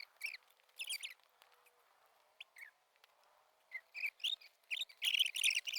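Small birds chirping: short high calls, scattered at first and coming thicker near the end.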